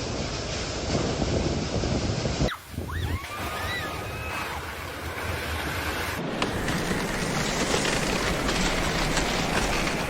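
Rushing floodwater with wind buffeting the microphone, as a steady loud roar. It changes abruptly about two and a half seconds in and again about six seconds in, and a few short rising-and-falling chirps sound just after the first change.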